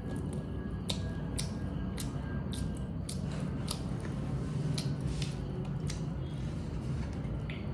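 A person chewing chicken and cucumber close to the microphone: irregular wet mouth and teeth clicks over a steady low hum.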